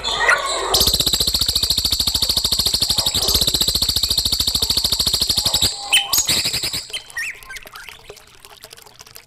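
A bird singing a fast, rattling trill for about five seconds, followed by a few short whistled notes: a songbird recording of the kind played to train young shamas.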